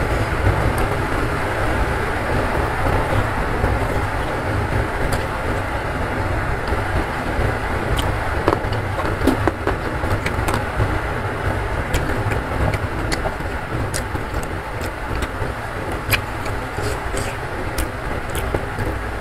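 Close-miked chewing of a mouthful of food with raw leafy greens, a steady crunching, wet mouth noise with scattered sharp clicks.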